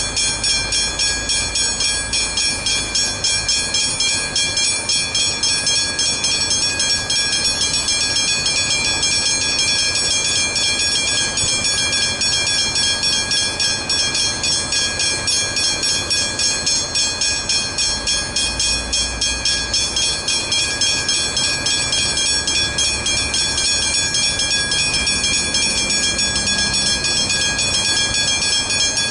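Level crossing warning bells ringing continuously in rapid, evenly spaced strokes, with some low rumble from rail traffic underneath.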